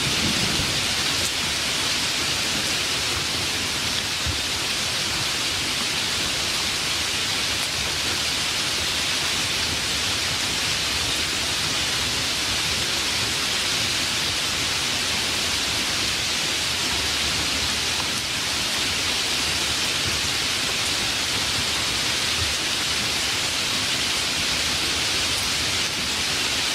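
Steady rainstorm, an even rush of rain falling, with the tail of a low thunder rumble dying away in the first moment.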